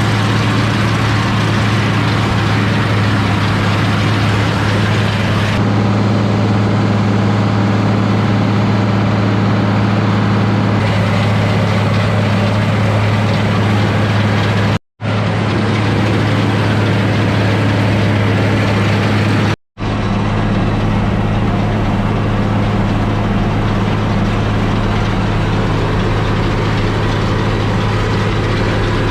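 International 1086 tractor's six-cylinder turbo diesel engine running steadily at working speed while cutting hay. The sound drops out for an instant twice, near the middle.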